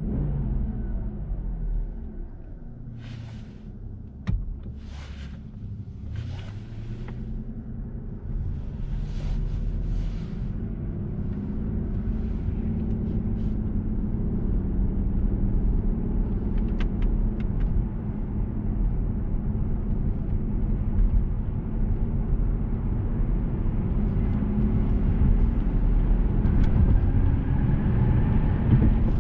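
Inside the cabin of a 2007 Mercedes-Benz S600, its twin-turbo V12 runs under way, a low engine hum over road rumble that grows steadily louder as the car gathers speed. There is a single sharp click about four seconds in and a few brief hissing sounds early on.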